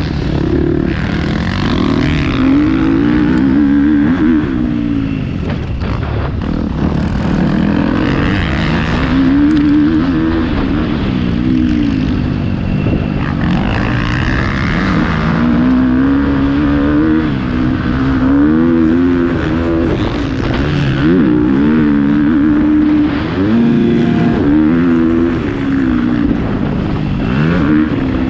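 Motocross dirt bike engine being ridden hard, revving up and easing off over and over, its pitch climbing and dropping with each burst of throttle and gear change.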